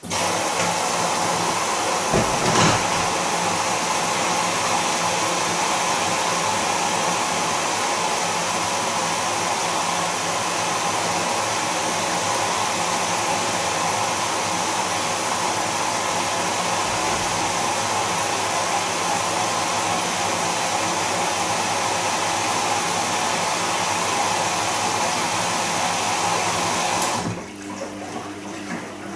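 Bosch Serie 2 VarioPerfect washing machine filling with water at the start of its cycle: a loud, steady rush of incoming water that starts abruptly and cuts off suddenly near the end as the inlet valve closes.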